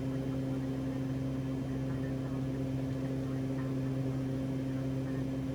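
Steady cockpit drone of a Cessna Conquest 441's twin turboprop engines and propellers in cruise: an even hum carrying a few fixed tones.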